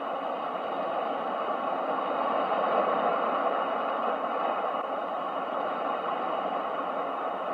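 Ocean waves: a steady rush of surf that swells gently about three seconds in and then eases off.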